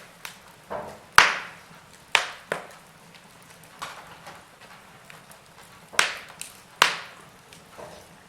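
Wood fire crackling: burning logs give a low hiss broken by scattered sharp pops, with a few loud snaps about a second in, around two seconds in, and twice around six to seven seconds in.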